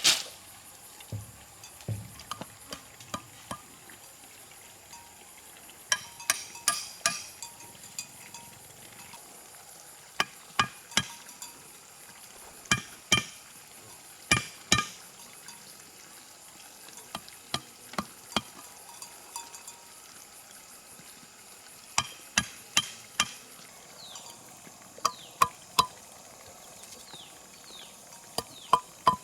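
Sharp knocks in short runs of three to five, a few seconds apart, over a faint steady high hiss.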